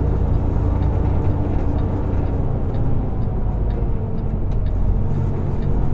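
Semi truck's diesel engine running steadily at a low pitch while the truck is driven slowly through city streets, with road noise.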